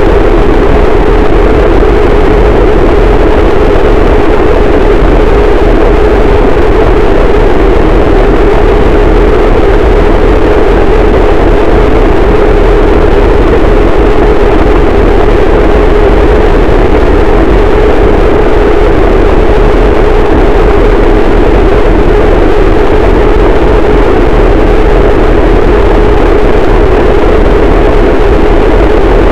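Harsh noise wall: a dense, unchanging wall of loud distorted static, strongest in a band in the low mids over a heavy rumble, with no breaks or changes.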